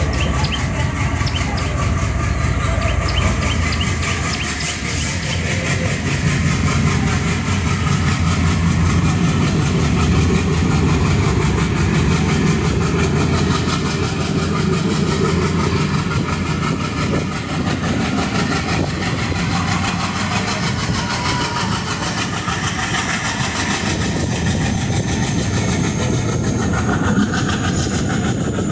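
Passenger train running along the track: a steady rumble of wheels on rails with clickety-clack. A thin high whine slowly rises near the end.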